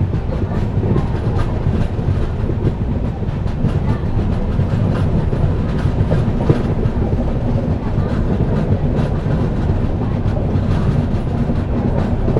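Passenger train coach running at speed: a steady rumble of steel wheels on the rails, with light irregular clicks from the track, heard from the coach's open window.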